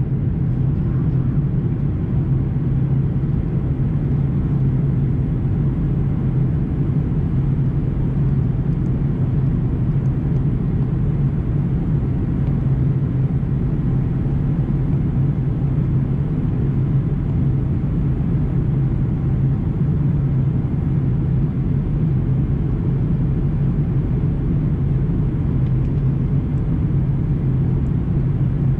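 Steady cabin noise of an Airbus A340-300 in flight, the even rumble of its four CFM56 engines and the airflow past the fuselage, heard inside the cabin.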